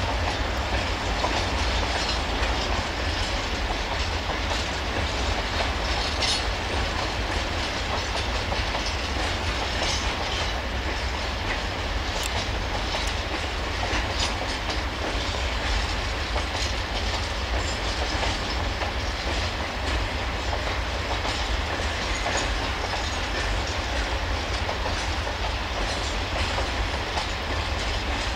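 Empty hopper wagons of a freight train rolling past at steady speed: a continuous rolling noise, with the wheels clicking now and then over rail joints.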